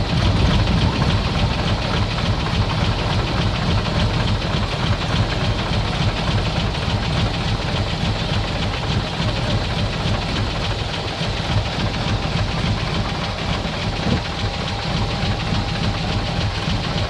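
Komatsu bulldozer's diesel engine running steadily, a dense low rumble with a faint steady whine above it.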